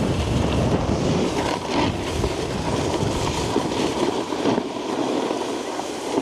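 Snowboard riding over packed snow: a steady scraping rush from the base and edges, with a few brief louder scrapes.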